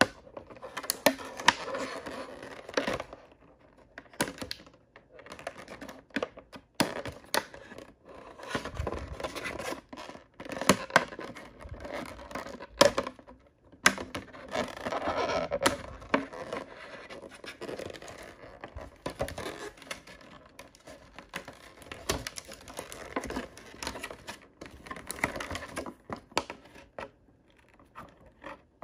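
Hands opening surprise-toy packaging: plastic and foil crinkling, tearing and scratching, with frequent sharp clicks and small knocks, in irregular spells.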